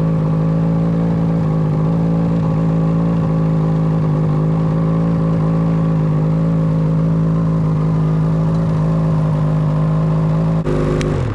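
2014 Ski-Doo Summit XM 800R snowmobile's two-stroke twin engine idling steadily, then shut off near the end, its pitch sagging as it winds down.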